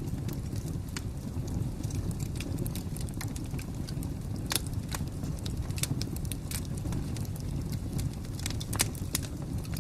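Wood fire crackling: a steady low rumble of burning with irregular sharp pops and snaps, two of them louder, about halfway through and near the end.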